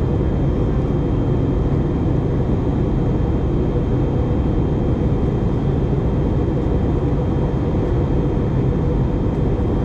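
Steady cabin noise inside an Airbus A320neo in flight: the hum of its CFM LEAP-1A engines and rushing airflow, heavy in the low end, with a faint steady high whine over it.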